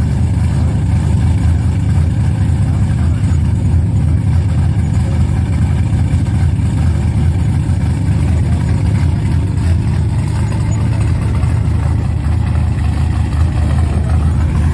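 A vehicle engine running steadily, a continuous deep rumble with no revving or breaks.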